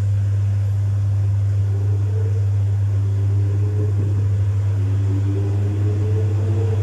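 Domus 8 kg washing machine running with a full load: a steady low hum, joined about two seconds in by a wavering motor whine as the drum turns.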